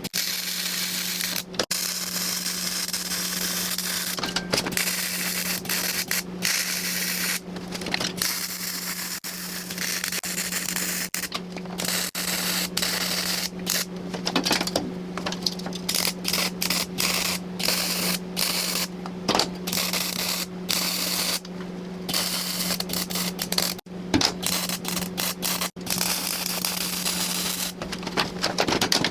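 MIG welder arc crackling as steel plate is welded, in runs of a few seconds that stop and restart many times, over a steady low electrical hum.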